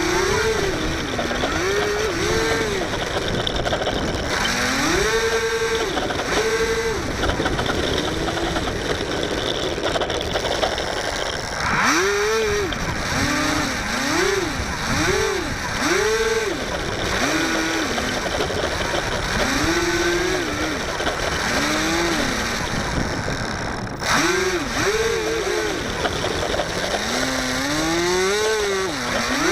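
Small electric motor and propeller of a HobbyZone Firebird Delta Ray RC plane running, its whine repeatedly rising and falling in pitch as the throttle changes, over a steady rush of wind noise.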